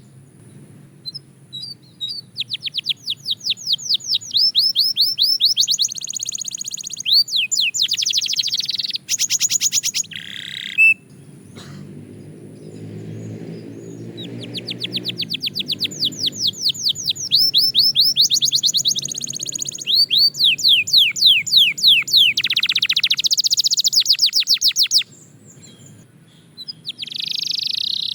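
Canary singing: long, fast trills of rapidly repeated high sweeping notes, broken by a few short pauses.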